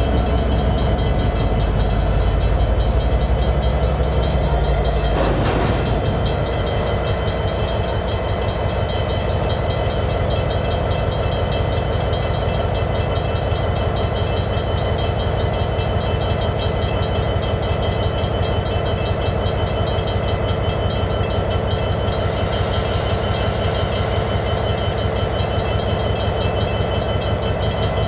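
EMD SD59MX diesel locomotives running as a freight train switches through a railroad grade crossing. The crossing signal bell rings steadily over the engines.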